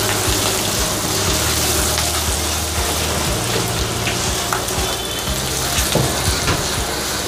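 Onions, ginger-garlic paste and turmeric sizzling steadily in hot oil in a kadai, stirred with a wooden spatula that scrapes the pan a few times.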